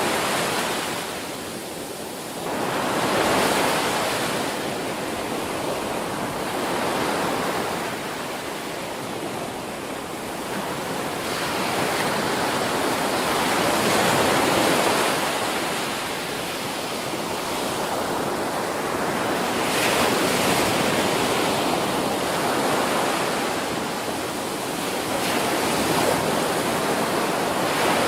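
Ocean surf: waves breaking and washing ashore, the rush of water swelling and ebbing every few seconds.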